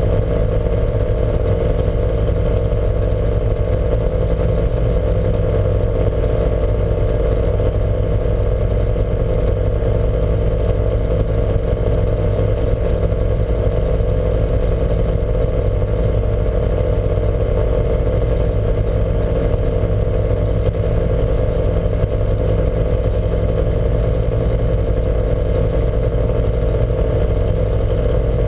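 Lancia Montecarlo's engine running loudly at a nearly constant speed, without rising or falling revs.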